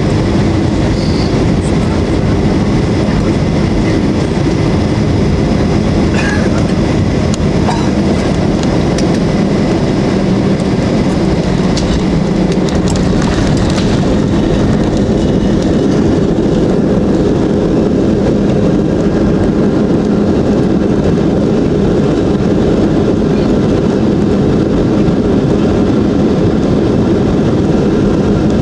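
Steady cabin noise inside a Boeing 737-800 during the landing: jet engines and rushing air in a constant deep rumble, with a few faint rattles and clicks a third of the way in.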